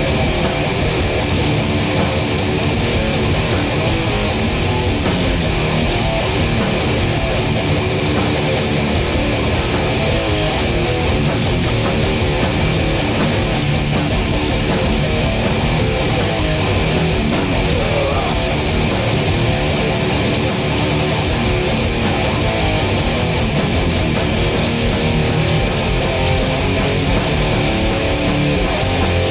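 A hardcore punk band playing live and loud: distorted electric guitars, bass and drums, with no vocals.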